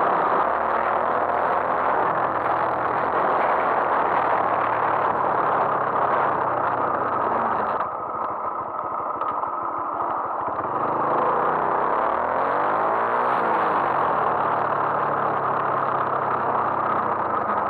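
Honda MSX125's single-cylinder four-stroke engine running while riding, under heavy wind noise on the microphone. The sound drops suddenly a little under halfway through, and further on the engine note rises and then falls as the revs go up and come back down.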